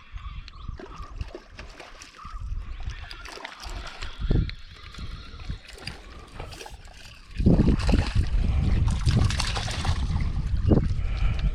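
Water splashing and trickling as a hooked mahseer is fought at the surface. From about seven seconds in, a loud rumbling noise joins it.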